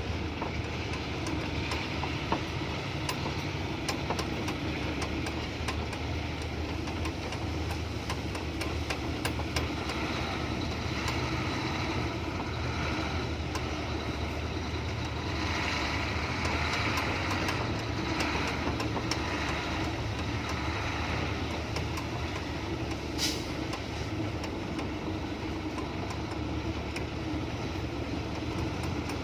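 Diesel engine of a heavily loaded Hino F18 ten-wheel truck running steadily as it drives along a rough, narrow dirt track, with one short sharp click near the end.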